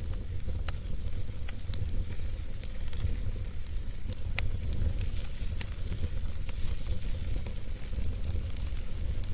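Wood fire burning in a fireplace: a steady low rumble and hiss with scattered, irregular sharp crackles and pops.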